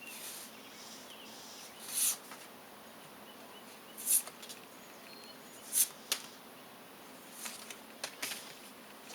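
Oracle cards being shuffled and handled: short papery swishes and flicks every second or two over a faint hiss.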